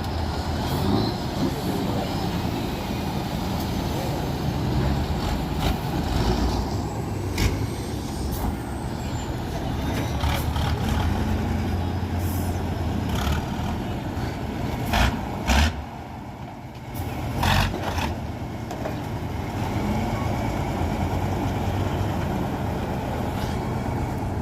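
Tatra truck-trial truck's diesel engine running under load, with several short, loud bursts of noise in the second half.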